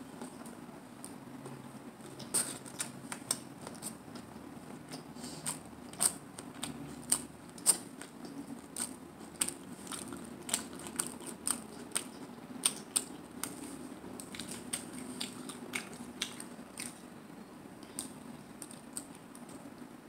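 Close-up chewing of a hard-shell taco: irregular crisp crunches and crackles, thickest through the middle, then thinning out near the end.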